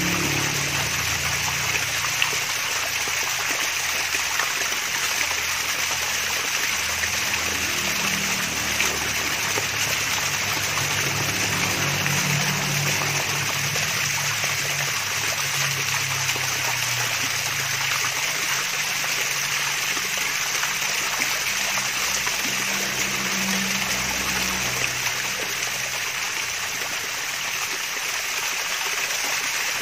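Small cascade of running water, a mini waterfall, trickling and splashing in a steady, unbroken babble.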